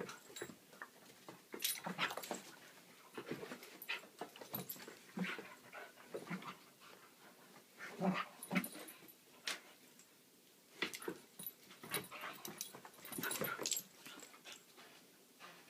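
Dogs playing together: short, irregular dog vocalisations mixed with scuffling, coming in bursts every second or so.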